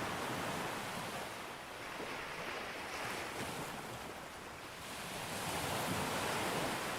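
Sea waves breaking on a beach: a continuous rushing surf that swells and eases in slow surges every few seconds.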